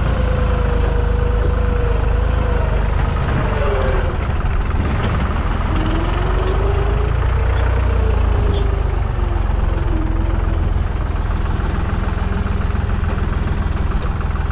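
Deutz-Fahr 55F tractor's diesel engine running steadily while pulling a cultivator, with a faint whine that dips and rises in pitch a few times.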